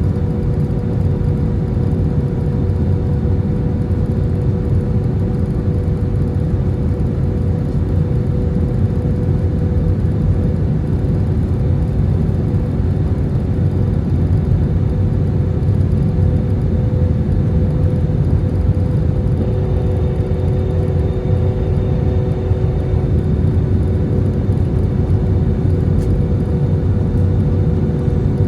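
Airbus A320 cabin noise heard from a window seat: a steady roar of jet engines and airflow with a constant droning hum.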